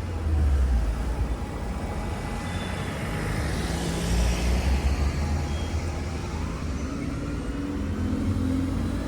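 Road traffic: a steady low engine rumble, with a vehicle passing close by about four seconds in, its road noise rising and then fading.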